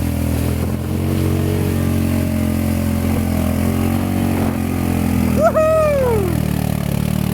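A small off-road vehicle engine running steadily. About five and a half seconds in, a loud, higher-pitched sound rises briefly and then falls away over about a second.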